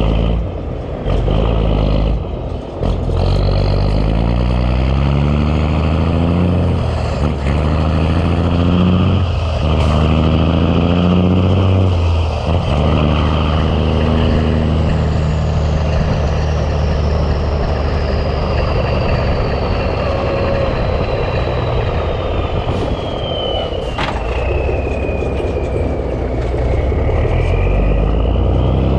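Big Cam Cummins inline-six diesel in a 1986 Ford LT9000 pulling hard up through the gears, its pitch climbing and then dropping back with each of several shifts in the first dozen seconds. It then runs steadily at speed, while a high whistle slowly falls in pitch over the second half.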